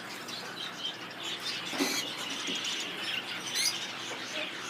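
Songbird singing: a run of quick high chirps and twittering trills.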